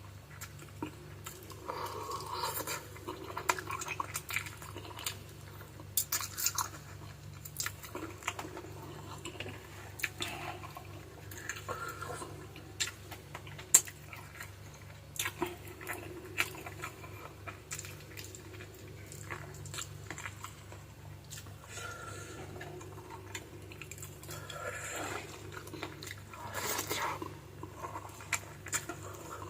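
Close-up chewing and biting of adobo-braised chicken feet: irregular wet smacks, sucking and crunches of skin and cartilage, with one sharper crack about halfway through.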